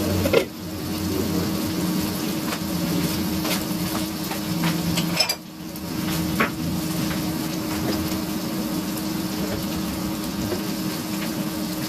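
Kitchen clatter: scattered clinks and knocks of utensils and dishes over a steady hiss and low hum.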